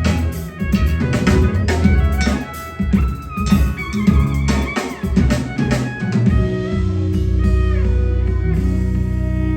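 Live rock band playing, with electric guitar, bass and drum kit. About six seconds in the drum hits stop, leaving held bass notes and guitar chords.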